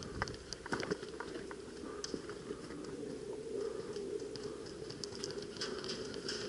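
Light rustling with many scattered soft clicks and ticks, over a faint steady hum.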